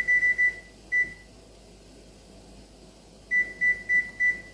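Digital timer beeping as its buttons are pressed to set it for 25 minutes: short, high, single-pitched beeps, a quick run of about four at the start, one more about a second in, then another quick run of five near the end.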